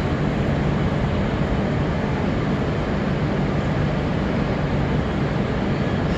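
Shinkansen train running at the platform: a steady rumble and rush of noise with no clear rise or fall.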